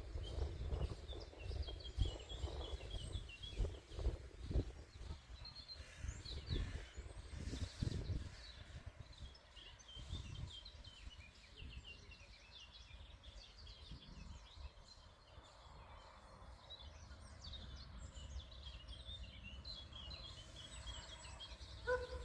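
Small songbirds twittering and chirping in a rapid high series throughout, with low irregular rumbling during the first eight seconds or so.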